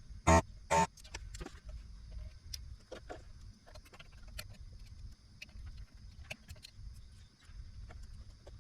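Hand tools working on an inverter's circuit board during an IC replacement: two sharp clicks about half a second apart near the start, then a run of small irregular clicks and taps over a low steady hum.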